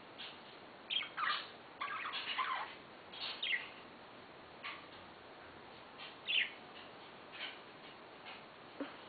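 Pet budgerigars chirping in short, irregular calls, a busy cluster in the first few seconds and then scattered single chirps.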